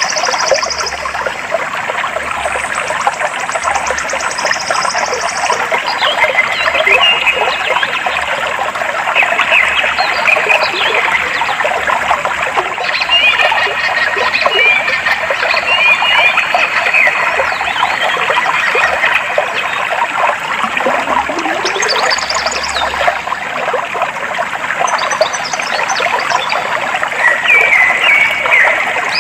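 Clear water flowing and trickling steadily, with short bird chirps over it and a fast high trill in the first few seconds.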